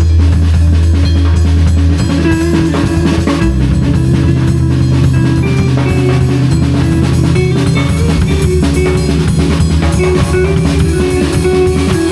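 Live band improvising: a drum kit keeping a busy beat under sustained bass notes that shift pitch every few seconds, with guitar notes above.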